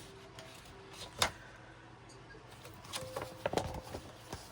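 Paper journal pages being handled and moved about: one sharp tap about a second in, then a cluster of soft rustles and taps near the end, over faint background music.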